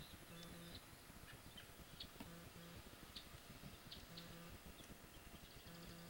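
Faint bird chirps played through a laptop speaker: short, scattered high chirps and clicks, with a low tone that recurs about every two seconds.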